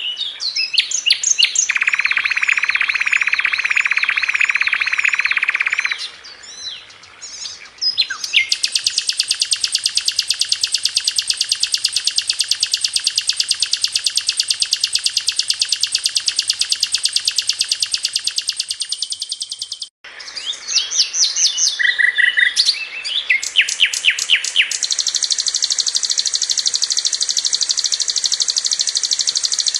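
Sikatan londo flycatcher singing a very fast, dense high trill in long unbroken runs, mixed with quick whistled phrases. The song breaks off abruptly about two-thirds of the way through and resumes at once.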